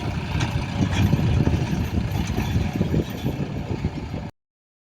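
John Deere tractor engine running, a low steady rumble that cuts off suddenly about four seconds in.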